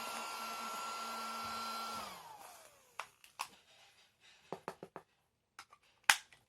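Miniature handheld dustbuster vacuum running with a steady high whine, switched off about two seconds in and winding down with a falling pitch. Then a scatter of small clicks and knocks of plastic being handled, the sharpest one near the end.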